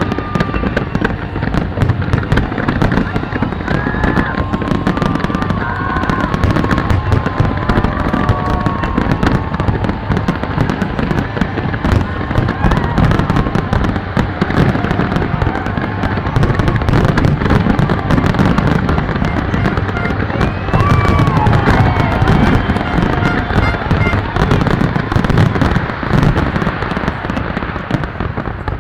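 Aerial fireworks display going off in a dense, continuous barrage of bangs and crackles, with a crowd's voices in the background.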